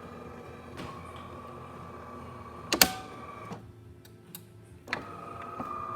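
DeLonghi Magnifica espresso machine's newly replaced water pump running with a steady buzzing hum while pouring a test shot with good flow. A sharp click comes nearly three seconds in. The hum stops briefly a moment later and starts again about five seconds in.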